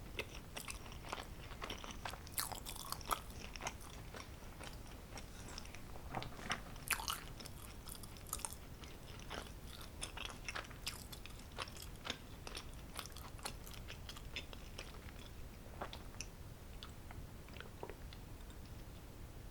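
Close-miked chewing and biting of homemade cheesy pizza: short, crisp crunches and clicks scattered irregularly, busier in the first half and sparser toward the end.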